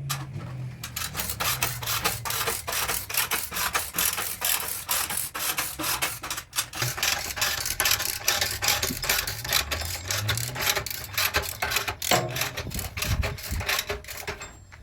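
Rapid rasping strokes of hand sanding or filing on car bodywork, about seven a second, with a short break midway.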